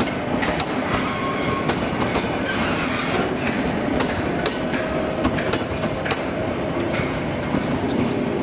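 Wheels of a departing passenger train's boxcar and coaches rolling past, clicking irregularly over the rail joints with a few faint wheel squeals. The rolling noise carries on steadily as the last coach passes and the train pulls away.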